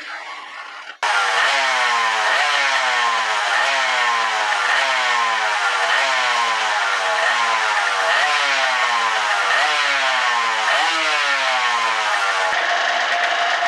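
Yamaha TDR250's two-stroke parallel-twin engine, freshly restored, being revved in repeated throttle blips about once a second. Each blip rises quickly in pitch and falls back more slowly. Near the end it changes to a steadier running note.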